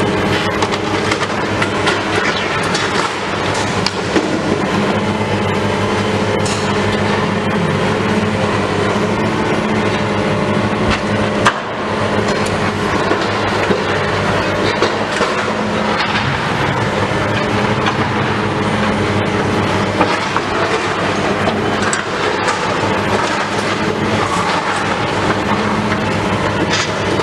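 Heavy diesel machinery running steadily, with repeated metallic clanks and knocks over the engine, as of a demolition excavator working.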